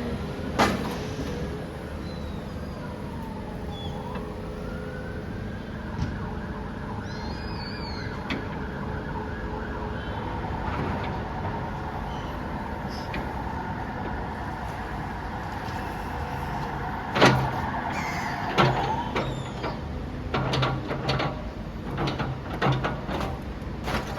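Demolition machinery running steadily, with a wavering whine over a low rumble, and knocks and crashes of breaking building material. The loudest crash comes about 17 seconds in, followed by a quick run of bangs near the end.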